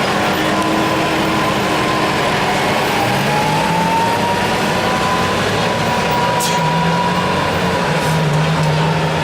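Engine of a modified lawn tractor running loudly and steadily, its pitch drifting slowly up and down.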